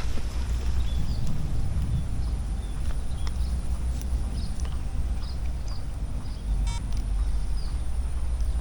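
Small birds chirping in short, faint, repeated calls, a couple each second, over a steady low wind rumble on the microphone; a brief buzzy click about two-thirds of the way through.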